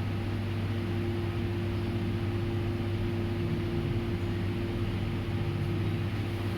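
Kawasaki Versys motorcycle engine idling, a steady even hum.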